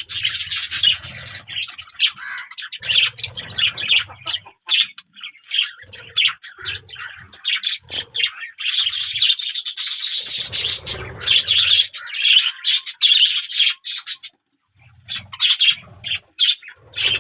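Many small birds chirping and squawking together in a busy, continuous chatter, which stops briefly about fourteen seconds in.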